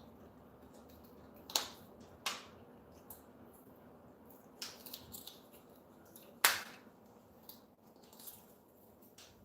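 Parrot biting into a plastic straw with its beak: a few sharp crunches and clicks, the loudest about six and a half seconds in.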